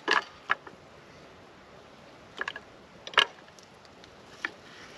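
Knife cutting strips of SPAM, heard as a few short sharp clicks and taps, the loudest right at the start and about three seconds in.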